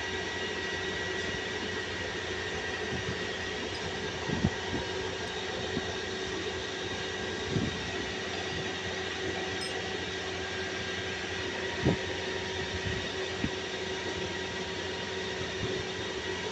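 A steady mechanical hum, like a fan or running machinery, with a few short knocks spaced a few seconds apart.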